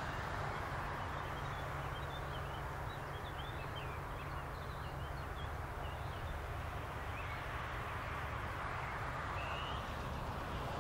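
Small birds chirping and singing in many short rapid notes, over a steady low hum and hiss.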